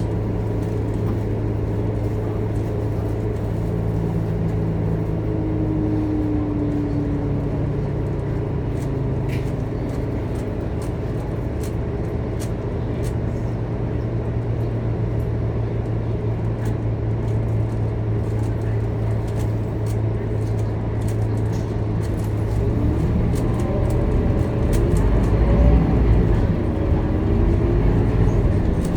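Scania K230UB city bus on the move: a steady diesel engine drone with a few brief whines, light rattles, and a deeper low rumble growing louder over the last several seconds.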